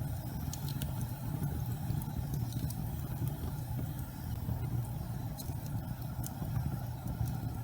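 Gas fireplace flames burning with a steady low rumble, dotted with scattered faint crackles.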